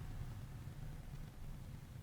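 Faint, steady low rumble of a car's engine and road noise while driving.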